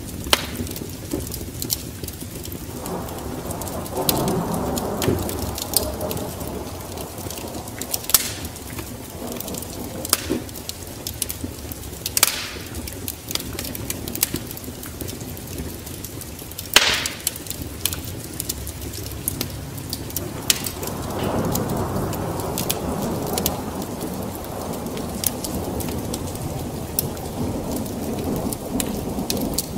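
Wood fire crackling and popping steadily, with two sharp louder pops, over a steady wash of rain. A deeper rushing rumble swells up twice, a few seconds in and again for several seconds past the middle.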